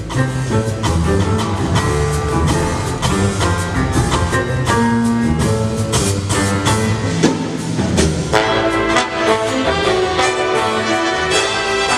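Big band playing jazz live: drum kit and rhythm section under the horns, with trumpets, saxophones and trombones. The horn section comes in fuller and brighter about eight seconds in.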